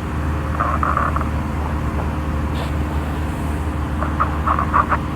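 Steady drone of a light single-engine piston aircraft's engine and propeller in cruise, heard inside the cabin.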